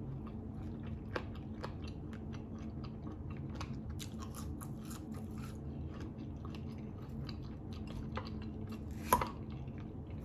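Close-miked chewing and wet mouth clicks of a person eating barbecue chicken and salad, over a steady low hum. A sharper click stands out about nine seconds in.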